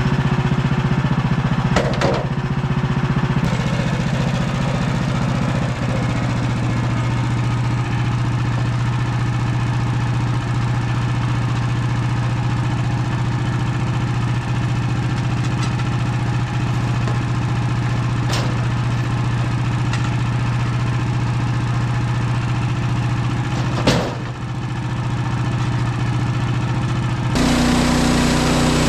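Woodland Mills HM130MAX portable sawmill's gas engine running steadily under load as its band blade cuts through a spruce log, with a short sharp knock near the end and a change in the engine note just after.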